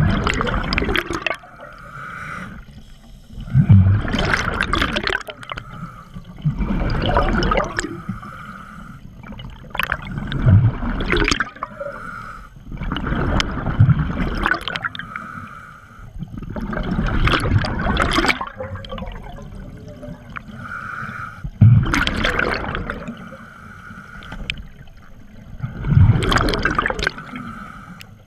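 Scuba diver breathing through a regulator underwater: a bubbling rush of exhaled air about every four seconds, about eight times, with a hissing inhale through the regulator in between.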